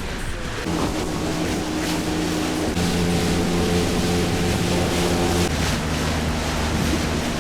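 Motorboat engine running under way, its pitch shifting a few times, with wind and water rushing past.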